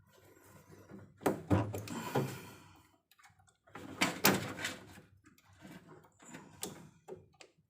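Irregular knocks, thumps and clatter of hands and tools working on an electrical distribution panel, with the loudest thumps about a second in and again about four seconds in.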